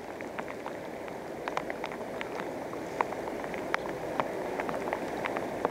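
Steady rush of flowing river water, with scattered light ticks and drips over it.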